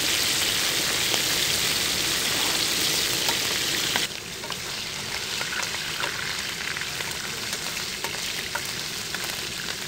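Shrimp frying in hot oil in a pan, a steady loud sizzle with small pops. About four seconds in the sizzle drops to a quieter hiss with scattered crackles.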